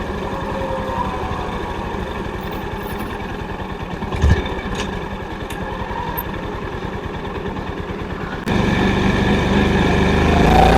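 Honda CB350's air-cooled single-cylinder engine and exhaust running with a steady, rapid beat of firing pulses, with a single thud about four seconds in. Past the eight-second mark the sound suddenly gets louder and fuller.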